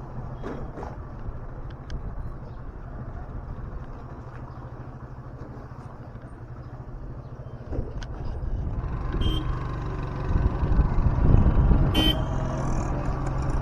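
Motorbike ride through city traffic: the engine runs with road and wind noise, growing louder about eight seconds in, and a vehicle horn gives a short honk near the end.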